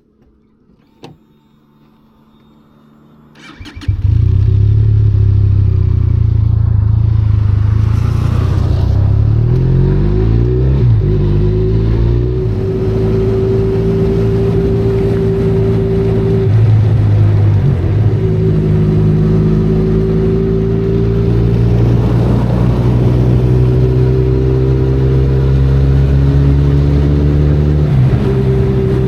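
Benelli Leoncino 500 Trail's parallel-twin engine. After a few seconds of quiet with a couple of faint clicks, it comes in loud about four seconds in and runs under way. Its pitch rises in glides as it accelerates through the gears, with brief dips at the gear changes.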